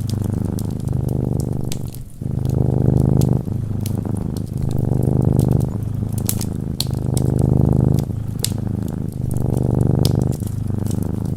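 Domestic cat purring close up, swelling and easing in a steady rhythm of breaths roughly every one to two seconds, with scattered crackles from a wood fire.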